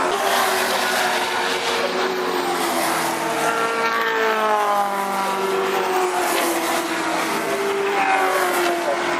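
Group A and Group C heritage touring cars racing past, several engines heard at once. About three seconds in, one engine note climbs in pitch, then falls away again.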